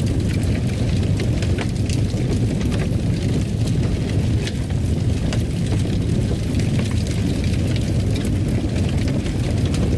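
Fire crackling in a fireplace: a steady low rumble of flames with frequent small sharp crackles and pops.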